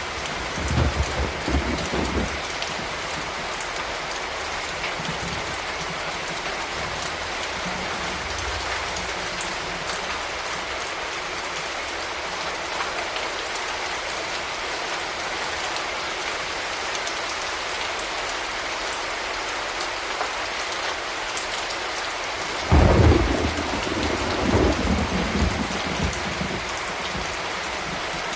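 Steady rain falling, with thunder rumbling twice: briefly near the start, and more loudly about 23 seconds in, rolling on for a few seconds.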